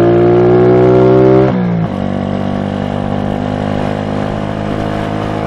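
SSR Razkull 125 pit bike's single-cylinder four-stroke engine pulling under throttle, its pitch slowly rising. About a second and a half in, the throttle is rolled off: the note drops and quietens, then settles into a steady lower run.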